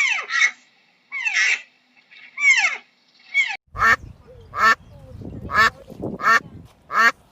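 A run of high animal calls, each falling steeply in pitch, then a sudden change to ducks quacking, about five quacks at an even pace.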